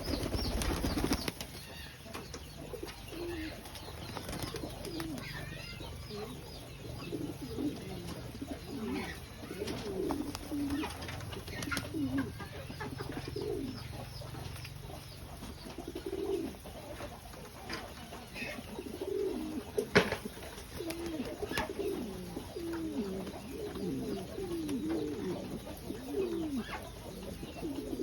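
Several pigeons cooing, their low, curving coos overlapping and repeating over and over, with a single sharp knock about two-thirds of the way through.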